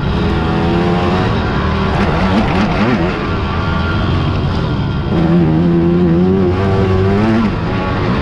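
Racing quad ATV engines revving and changing pitch as they pass, with more than one engine heard at once. A louder engine holds a steady pitch from about five seconds in until shortly before the end.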